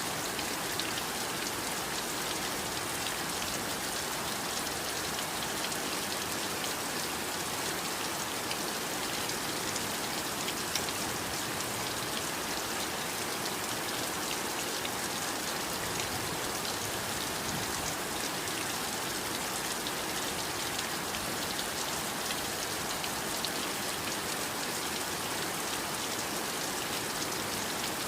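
Steady heavy rain falling, with a dense patter of drops.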